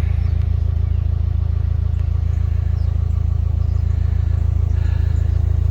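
Narrowboat diesel engine running steadily, a constant low hum.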